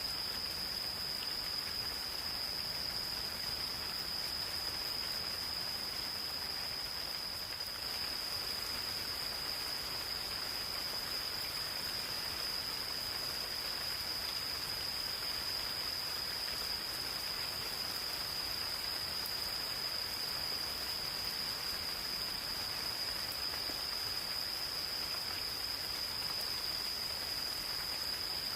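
Gentle rain falling steadily in a forest, with insects singing a continuous high-pitched trill that holds one steady pitch without a break.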